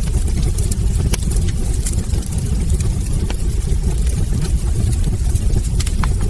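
Wood fire burning in a fireplace: a steady low rumble of the flames with sharp, irregular crackles and pops from the logs, a few of them standing out.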